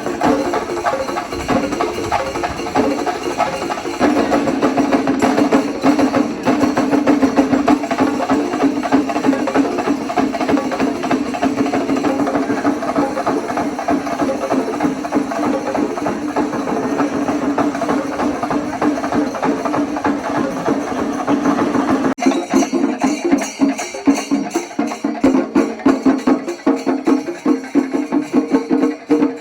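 Traditional Kerala temple drumming: dense, rapid stick strokes on drums played by a festival percussion ensemble. About two-thirds of the way through it cuts abruptly to a more clearly pulsing rhythm with less bass.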